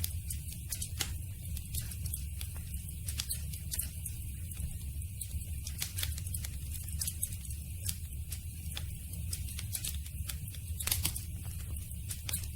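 Campfire burning: the wood crackles with many irregular, sharp pops over a steady low rumble.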